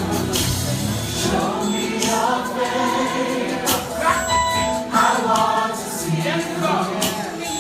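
Gospel choir singing with band accompaniment, drums keeping a steady beat.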